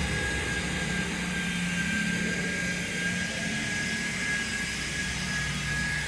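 Steady mechanical drone with a high whine that slowly falls in pitch over a constant low hum.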